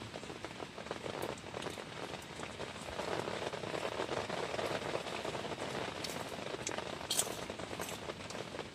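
Steady heavy rain, a dense patter of drops, growing somewhat louder about three seconds in.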